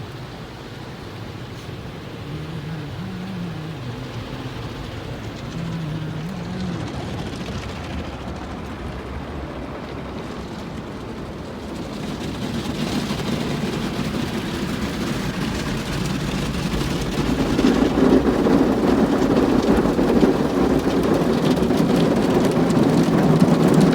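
Automatic car wash spraying water over a car, heard from inside the cabin as a steady rushing, drumming wash. The noise grows louder about halfway through and again a few seconds later.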